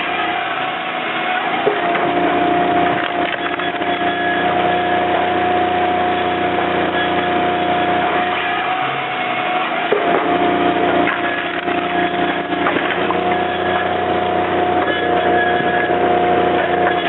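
Hydraulic firewood processor (model 1616EZ) running, its motor holding a steady whine while logs are cut and split, with wood cracking and splintering. The whine dips briefly twice, about two seconds in and again near the middle.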